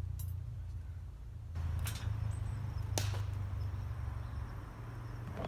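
A few sharp knocks, the loudest about three seconds in, over a steady low rumble.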